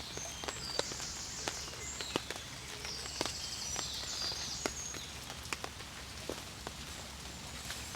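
Scattered drops tapping at irregular intervals, like rain dripping onto a tarp shelter, with short, high bird chirps mixed in during the first few seconds.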